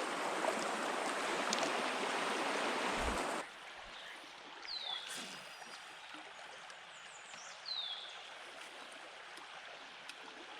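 Creek water rushing, cutting off abruptly about three and a half seconds in to a quieter flow. Over it a small bird gives a short, high, downward-slurred call twice, a few seconds apart.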